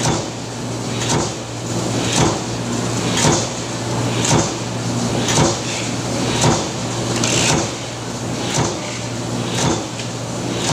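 Press machine stamping in a steady cycle, one sharp stroke about every second, over the constant hum of the machine running.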